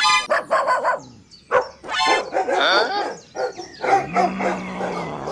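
A small dog barking and yipping in a string of short, excited barks, a dubbed-in sound effect.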